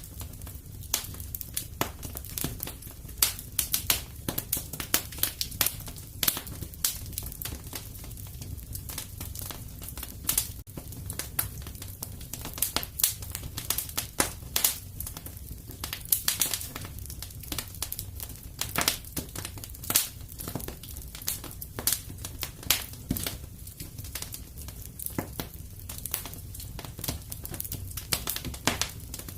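Wood fire in a fireplace crackling and popping, with many irregular sharp snaps over a steady low rumble.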